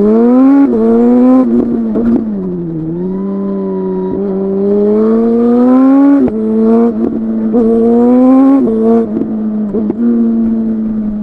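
Suzuki GSX-R 1000 inline-four sport bike accelerating hard. The engine note climbs and drops back with sharp cracks at each gear change. It eases off briefly about two seconds in, its pitch sinking, then pulls again through several more quick shifts.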